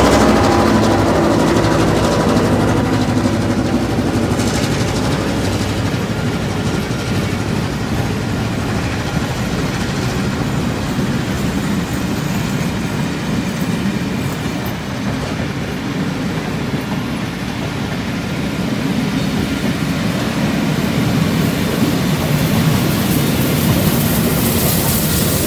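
A long rake of vintage passenger carriages rolling past close by on the rails, a steady rumble of wheels on track. It grows louder near the end as the steam locomotive 3801 at the rear of the train comes alongside.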